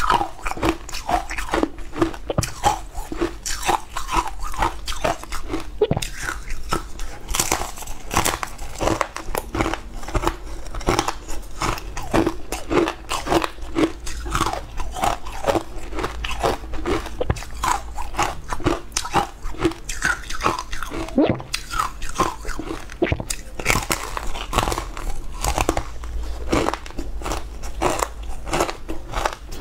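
Close-miked eating: a person biting and chewing a green-powder-coated food, with a dense, steady stream of small crisp crackles and mouth clicks over a low hum.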